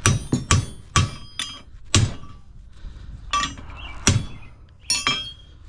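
Steel being struck with a hammer, about nine sharp, irregular blows, several of them ringing metallically.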